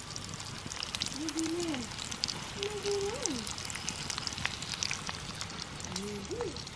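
Bacon and pancakes frying in cast-iron skillets over a campfire: a steady fine crackling sizzle. A voice makes three short rising-and-falling sounds over it.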